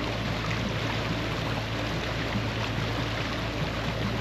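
Steady rush of water along a sailboat's hull as it sails under way: an even hiss with a low steady hum underneath.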